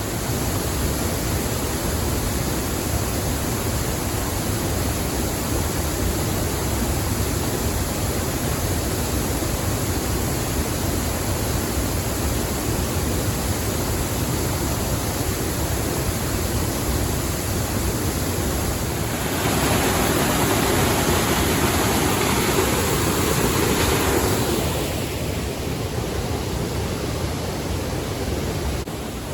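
Waterfall rushing steadily, a continuous loud hiss of falling water that swells louder for a few seconds about two-thirds of the way through.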